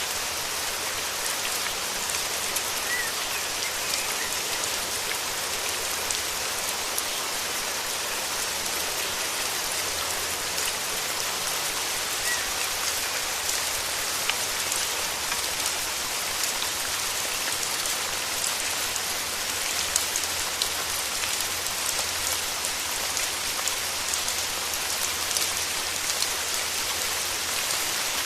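Steady rain falling in a forest, a dense, even patter of drops.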